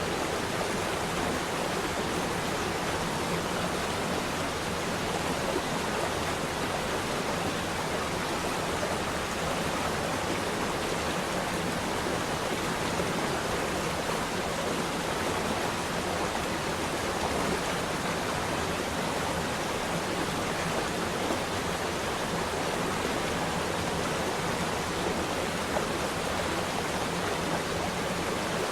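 Running water flowing steadily, an even rushing sound like a stream or small waterfall.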